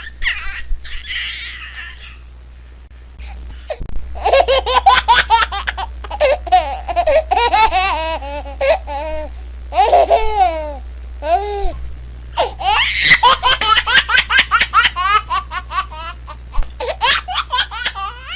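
A baby laughing in long runs of rapid, pulsing laughs, starting about four seconds in, with a short pause midway before it laughs again.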